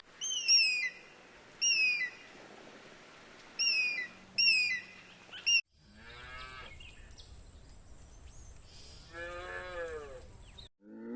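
Five short, high bird chirps, each falling in pitch, then after a cut two longer drawn-out calls from a larger animal, the second ending about a second before the end.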